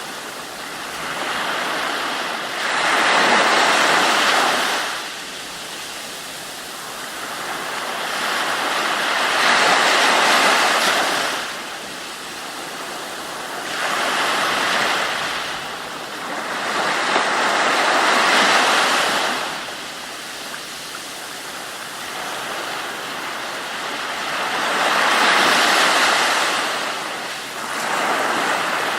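Ocean waves breaking and washing on a shore, the rush of water swelling and falling away in surges every four to seven seconds.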